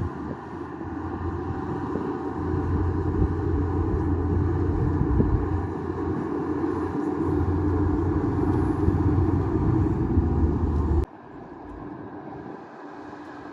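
Bulldozer's diesel engine running hard, building over the first couple of seconds to a steady low rumble. About eleven seconds in it drops suddenly to a much quieter engine sound.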